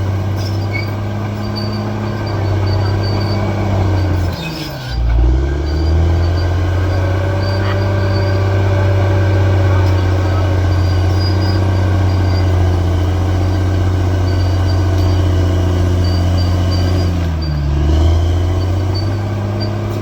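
Bulldozer's diesel engine running steadily, its engine speed dipping sharply and recovering twice, about a quarter of the way in and again near the end.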